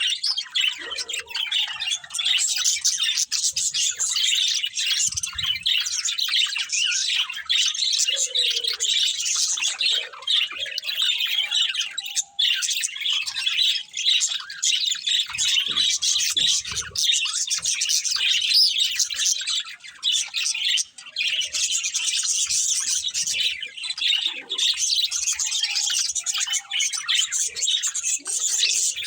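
Several budgerigars chirping and chattering continuously, a dense, high-pitched warble with occasional squawks.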